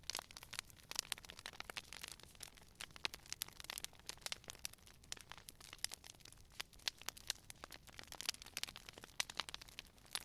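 Wood fire crackling: many irregular sharp snaps and pops, several a second, over a low steady hiss of burning.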